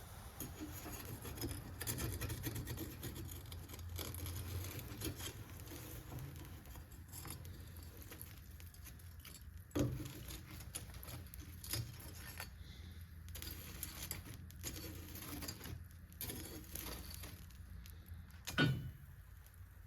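Light metallic clinks and rattles of metal being handled, with two louder knocks, one about ten seconds in and one near the end, over a steady low hum.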